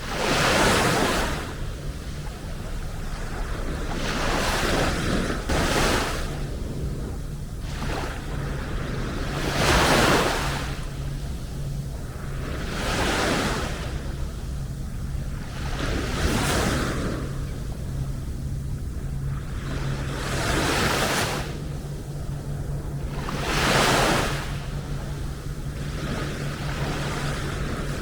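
Small sea waves breaking and washing up on a beach, one swell of surf every three or four seconds, about eight in all. A steady low hum runs underneath.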